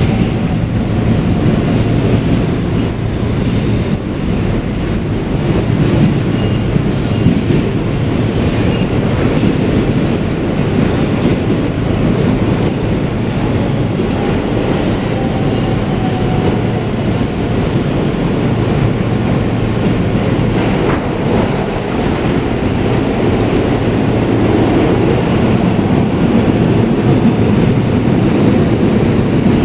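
Interior of a New York City Subway R160B car with Siemens propulsion running between stations: a steady, loud rumble of wheels on rail, with a faint high wheel squeal at times in the first half.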